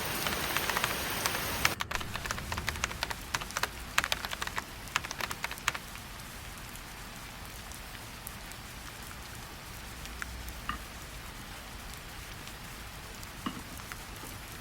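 Rain falling, louder for the first couple of seconds, then shifting abruptly to a softer steady patter. Heavy drips tap in quick irregular clicks between about two and six seconds in.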